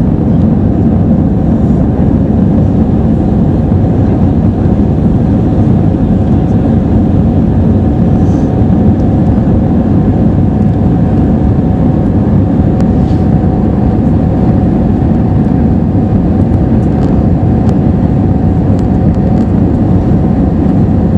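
Steady cabin drone of an Airbus A320-214 in flight, from its CFM56-5B engines and the airflow over the fuselage, heard from inside the passenger cabin. It is a deep, unchanging rumble with a faint steady hum above it.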